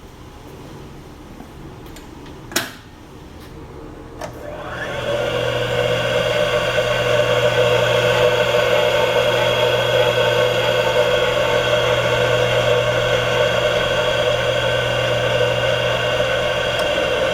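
Hammond CM-6 chip-breaking and cup-wheel grinder, a sharp click, then a lighter one, then the motor starting about four seconds in. It winds up within a second to a loud, steady whine and runs on.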